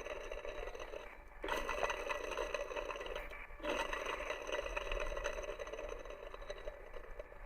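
Abnormal noise from a 200-series Toyota Hiace's engine: a scraping whir with a steady high whine running through it, cut into three short takes. The auto-tensioner is the suspected source.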